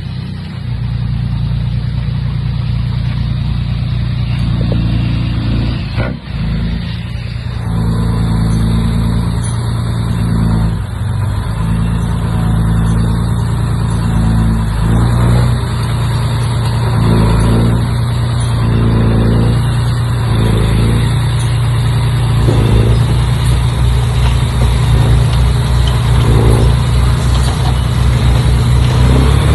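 Komatsu bulldozer's diesel engine running hard under load. It is a steady, heavy drone that surges up and down repeatedly in the second half.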